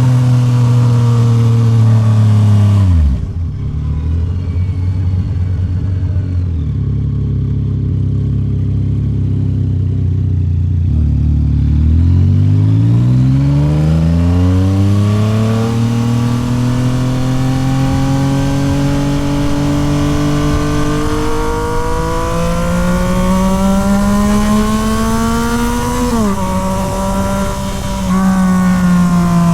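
Yamaha MT-09 SP's three-cylinder engine through a Toce full aftermarket exhaust. The revs drop to idle about three seconds in and it idles for several seconds, then pulls away with rising revs and a sudden drop in pitch a few seconds before the end, typical of a gear change.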